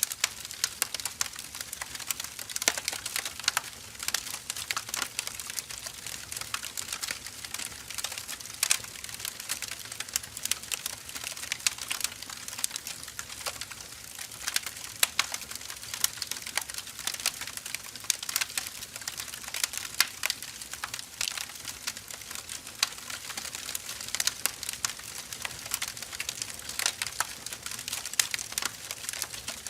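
Burning firewood crackling: irregular sharp pops and snaps over a steady hiss of the fire.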